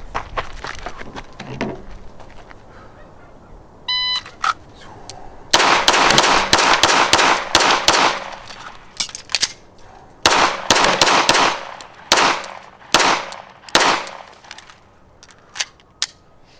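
An electronic shot-timer beep about four seconds in, then rapid strings of 9mm pistol shots from a Beretta 92G in several groups, the last loud one near the end.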